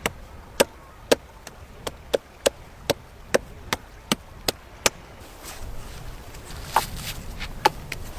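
Repeated chopping strokes of a blade into wood: a quick, even run of about a dozen sharp knocks, roughly two or three a second, then a short pause and two more strokes near the end.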